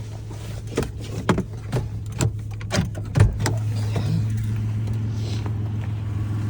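A 2004 Toyota Tacoma's 3.4-litre V6 idling with a steady low hum, running smoothly. Over it come a string of short knocks and clicks in the first few seconds and a sharp knock at the very end.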